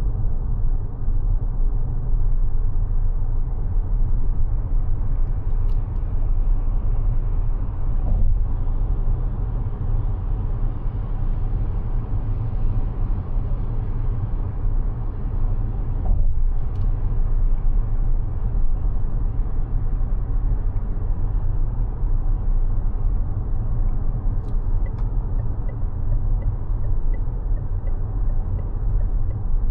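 Mazda 6e electric sedan on the move: a steady low rumble of road and tyre noise with no engine note. A few faint clicks, and a faint regular ticking near the end.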